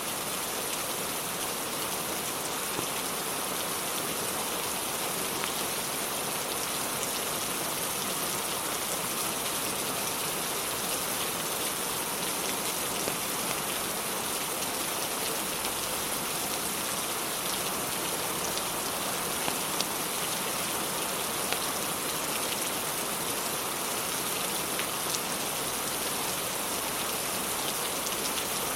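Steady rain falling on a surface, an even dense hiss, with a few faint sharp pops scattered through it.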